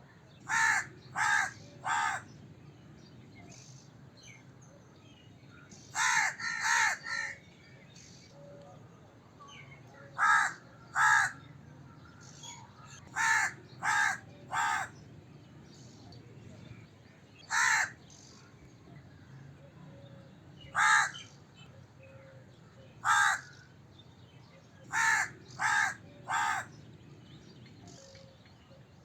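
Crow cawing: short caws in bursts of two to four, with some single caws, a few seconds apart. A faint low hum runs underneath.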